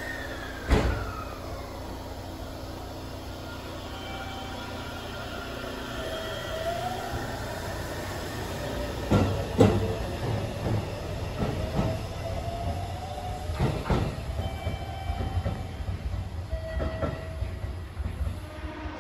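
Electric train running on the platform track, its motor whine gliding in pitch and rising as the train picks up speed, over a steady low rumble, with several sharp clacks, the loudest about a second in and two close together a little past halfway.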